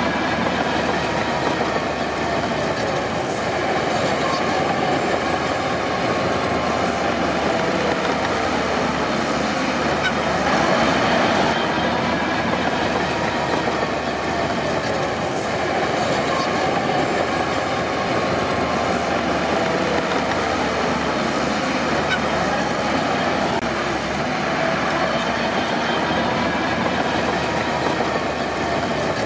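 Crawler bulldozer working, its diesel engine running under a steady loud din of steel tracks clanking and squealing, the squeal wavering up and down in pitch.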